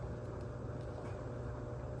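Steady low hum with faint tones above it, unchanging, with no distinct knocks or tearing.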